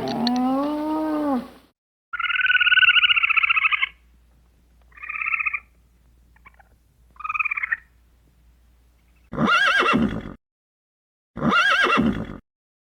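The tail of a cow's low moo, then a higher, steady animal call lasting nearly two seconds followed by two short calls. From about nine seconds in, a horse neighs twice, each whinny about a second long.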